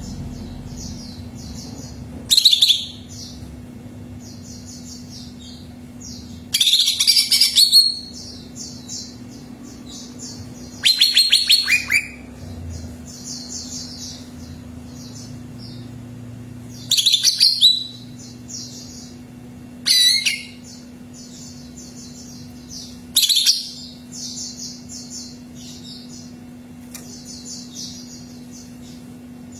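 Cucak ijo (green leafbird) singing: loud, high whistled song phrases every three to six seconds, with a quieter rapid twittering carrying on between them. A faint steady hum runs underneath.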